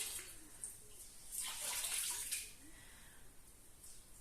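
Water splashing in a cleaning bucket, swelling for about a second midway and then dying down.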